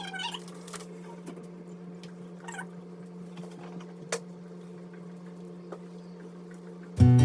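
Quiet kitchen sounds over a steady low hum, with a sharp click about four seconds in. Acoustic guitar music starts at the very end.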